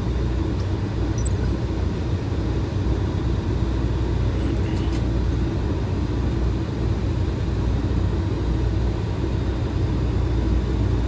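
Boeing 737 flight-deck noise in flight: a steady low rumble of airflow and engines, with a faint tick about a second in.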